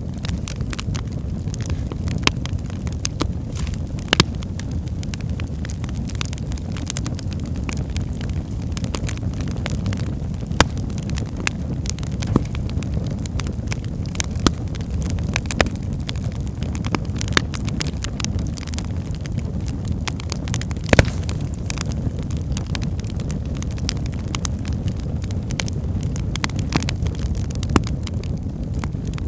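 Wood fire burning in a fireplace: a steady low rumble of flames with irregular sharp crackles and pops from the burning logs, one louder pop about two-thirds of the way through.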